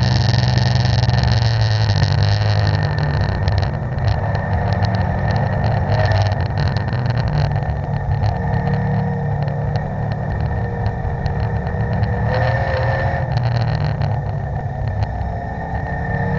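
Car engine heard from inside the cabin during hard track driving, running at high revs and easing off as the car slows into the corners, with road and wind noise.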